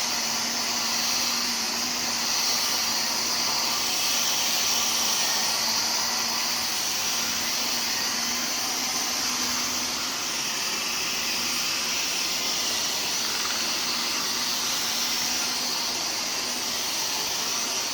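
Vacuum cleaner running steadily: a constant motor hum under a high, even hiss of rushing air.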